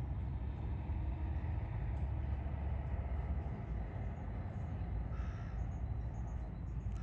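Steady low rumble, with faint bird calls about five seconds in.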